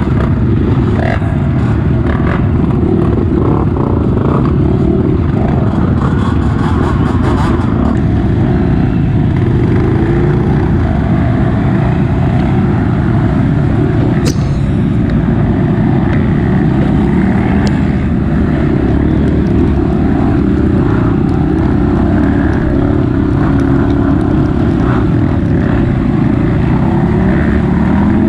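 Honda CRF230F's single-cylinder four-stroke engine running steadily on a trail ride, with a few sharp clicks.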